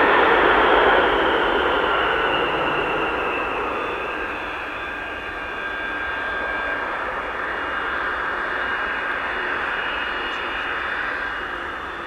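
Boeing 707's Pratt & Whitney JT3D turbofan engines roaring and whining as the jet lands. The engine whine slides down in pitch and the sound slowly fades as the aircraft moves away.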